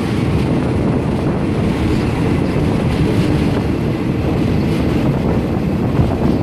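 Steady rumble of a train running along the track, heard from on board, with wind buffeting the microphone.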